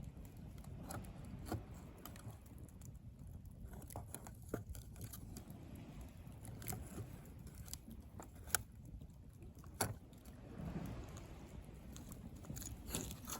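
Driftwood bonfire crackling, with irregular sharp pops and snaps, two loud ones about two-thirds of the way through, over a low steady rumble.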